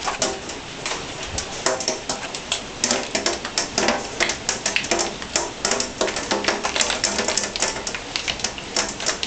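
Large hailstones striking hard surfaces: a dense, irregular clatter of sharp hits over the hiss of heavy rain.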